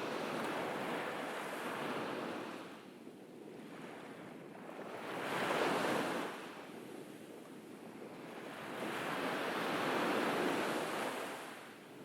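Sea waves breaking and washing up a beach, rising and falling in three slow swells about four seconds apart, the middle one loudest.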